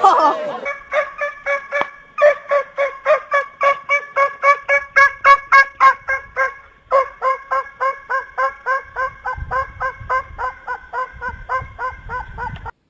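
A large bird calling in a long, fast, even series of short harsh notes, about four a second, with a brief pause midway; the calls stop abruptly near the end.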